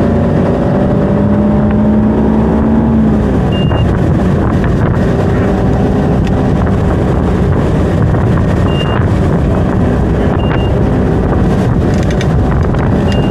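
Ski tow boat's engine running under way, a steady loud rush with wind on the microphone; its pitched tone rises slightly and then fades into the noise a few seconds in. Four short, high beeps sound at irregular intervals.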